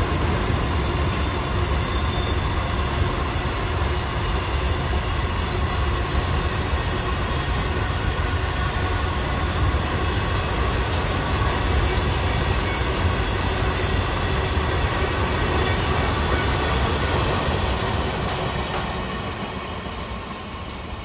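Indian Railways freight train's wagons rolling past, a steady rumble and rattle of wheels on the rails, dying away a little near the end.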